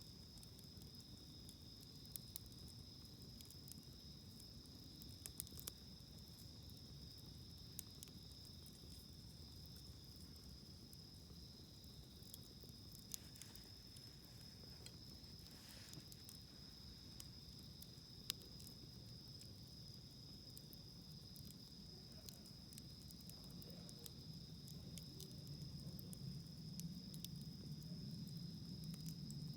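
Faint campfire with scattered sharp crackles and pops from the burning wood, over a steady high trill of insects. A low rumble swells over the last few seconds.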